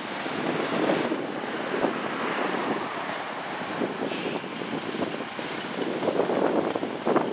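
Wind buffeting the microphone in uneven gusts, over a rushing noise of street traffic; no siren or horn is heard.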